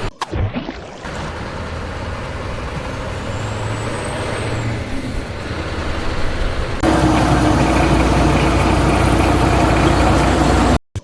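Vehicle engine running steadily, with an abrupt cut about seven seconds in to a louder engine sound with a steady hum, and a brief dropout near the end.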